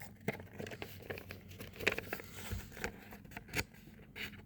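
A sheet of paper being handled and folded, crinkling, with irregular soft crackles and taps as it is creased; the sharpest come about two seconds in and again a second and a half later.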